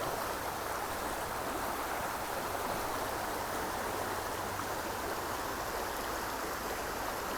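River water flowing steadily, an even rush of current.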